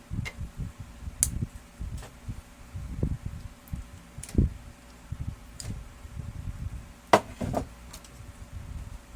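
Irregular handling noises, with soft low bumps and scattered sharp clicks and knocks, as of parts of a laser printer being handled and fitted. The loudest knocks come about a second in, around four seconds in and about seven seconds in.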